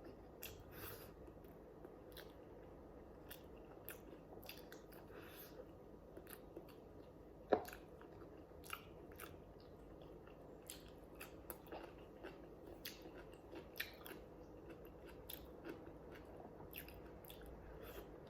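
Close-up eating sounds: chewing and biting, with many soft scattered mouth clicks and small crunches, and one sharper click about seven and a half seconds in.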